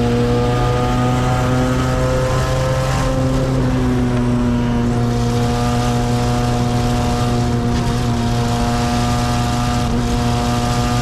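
Race car engine running at high, nearly steady revs, its note creeping slowly upward in pitch.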